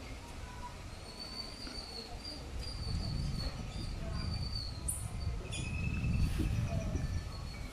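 Outdoor birdsong: high, wavering chirps come in short phrases through the first half, with a brief sharp call and a held higher note a little past the middle. Under it runs a low rumble that grows louder about a third of the way in.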